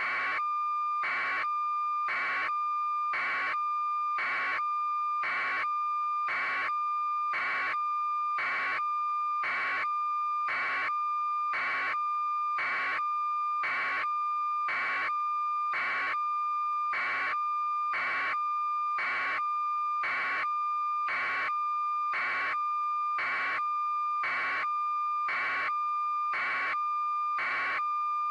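A continuous high electronic tone with a louder beep pulsing over it about once a second, steady and unchanging.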